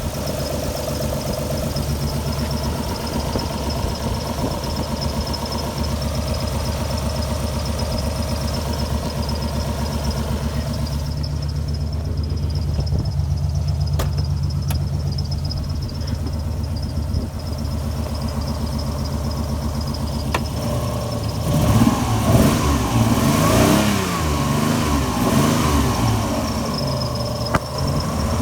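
Alfa Romeo GTV V6 engine idling, then revved up and down several times in the last few seconds. It is running rough after months parked, which the owner suspects is a misfire.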